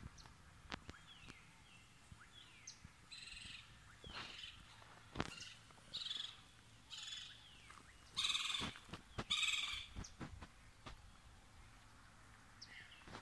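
Wild birds calling: a series of harsh, buzzy calls of about half a second each, the loudest two about eight and nine seconds in, with a couple of short falling whistles before them and scattered sharp clicks.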